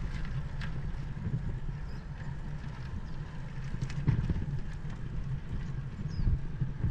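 Wind buffeting the microphone of a camera riding on a moving bicycle: a steady, gusty low rumble with faint hiss and a few light clicks.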